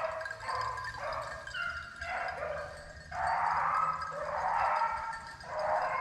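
A pack of rabbit-hunting hounds baying together on a running rabbit's trail, many voices overlapping, loudest in the second half.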